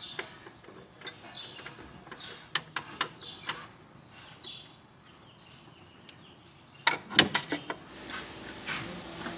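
Scattered sharp clicks and knocks of mechanical handling, with a quick cluster of louder knocks about seven seconds in and faint short squeaks or chirps between them.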